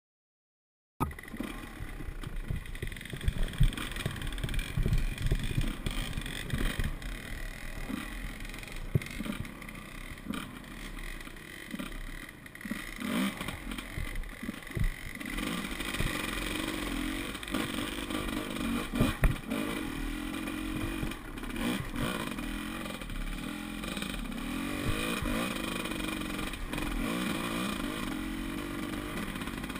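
Enduro dirt bike engine running, its revs rising and falling, starting about a second in. Through the first half it is mixed with many irregular knocks and thumps; from about halfway the engine note is steadier and clearer.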